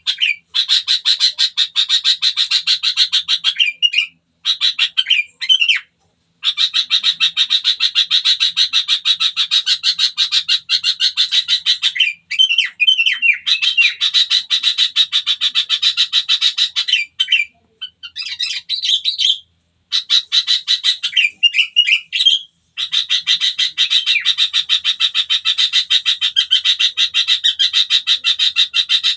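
A bird calling in long, fast rattling trills broken by short pauses, with brief gliding notes between phrases.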